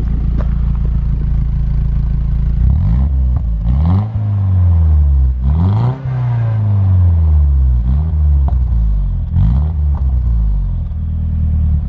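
Nissan Silvia S15's SR20DET turbocharged four-cylinder idling and being revved on its original turbo elbow and downpipe. It rises in pitch and falls back twice from about three seconds in, then gives a couple of short blips before settling back to idle.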